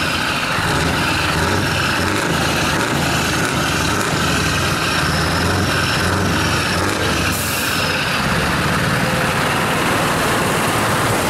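Scania R truck engine running steadily through an open free-flow exhaust. A brief air hiss comes about seven seconds in.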